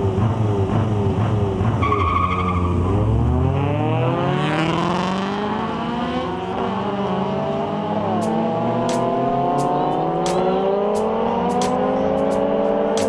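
Two Honda Civics pulling away hard side by side, their engines revving up in a long rising sweep through a couple of gear changes. There is a brief high squeal about two seconds in.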